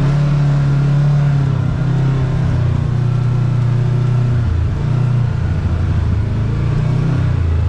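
Side-by-side UTV engine running under way, its note dipping about halfway through and rising again as the throttle changes.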